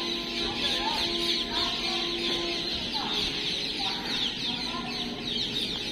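Many birds chirping at once: a dense, continuous chatter of short, high, falling calls.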